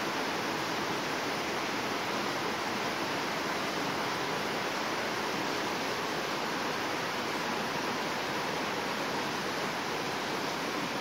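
Heavy rain pouring steadily on foliage and a wet road, a dense even hiss with no let-up.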